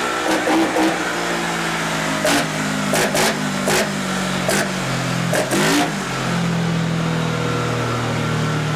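Polaris RZR XP 900 side-by-side engine, its intake opened up with the airbox lid off, idling and blipped in a quick string of short, sharp revs. For the last few seconds it settles to a steady idle.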